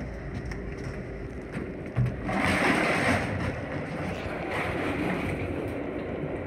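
Metra commuter train car running on the track, heard at the vestibule doors as a steady rumble. About two seconds in there is a thump, then a louder rush of noise for about a second as the car runs close alongside a freight train.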